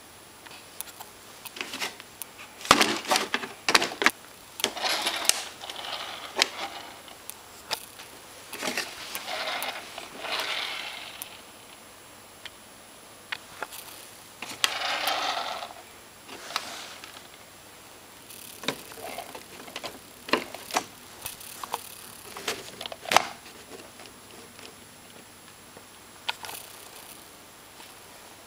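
Hand-handling noises: scattered clicks and light knocks, with several bursts of rustling and scraping lasting about a second each, as plastic RC truck parts are picked up and moved about.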